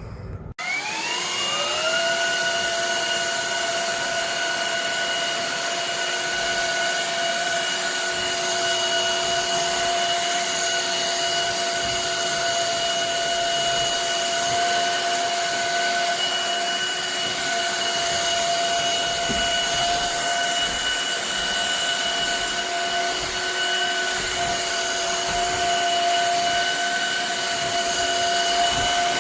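Shark HydroVac MessMaster cordless wet-dry vacuum's motor starts about half a second in with a rising whine, then runs at a steady pitch with a strong airflow hiss.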